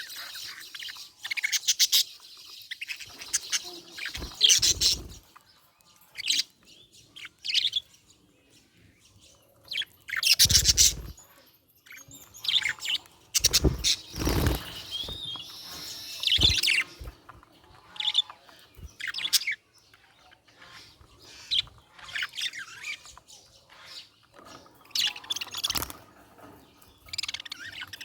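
Budgerigar chirping in many short bursts with brief pauses between them, the loudest bursts about ten and fourteen seconds in.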